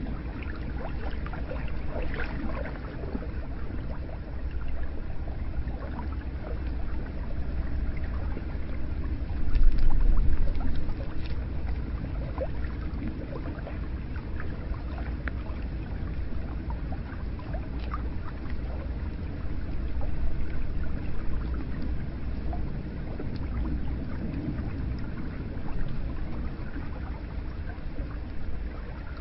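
Hot spring water pouring and trickling steadily, with small splashes and drips throughout and a brief louder surge about ten seconds in.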